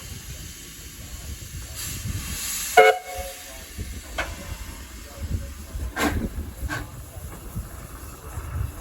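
Steam locomotive letting off a hiss of steam about two seconds in, ending in a brief, loud toot of its whistle, then a few sharp metallic clanks over a low rumble.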